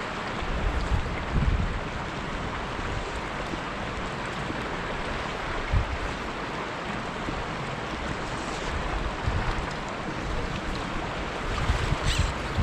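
Steady rush of flowing stream water, with wind buffeting the microphone in irregular low thumps.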